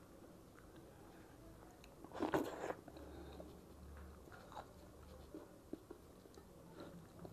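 Close-miked eating sounds: chewing, with one louder crunchy bite a little over two seconds in, then small wet mouth clicks.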